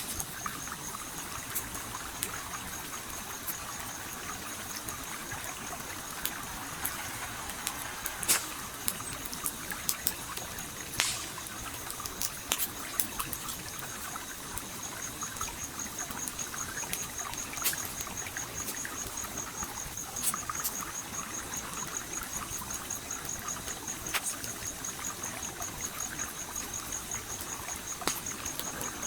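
A stream flowing steadily under the irregular snaps and pops of a crackling campfire, with a few sharper cracks scattered through. A high, rapidly pulsing tone joins about halfway through.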